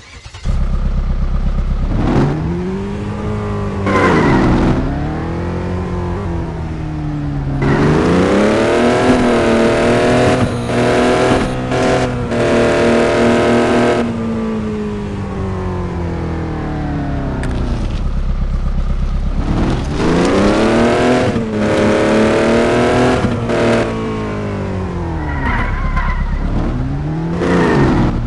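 Truck engine being revved repeatedly, its pitch climbing and falling with each rev. Midway one longer rev is held high for about six seconds.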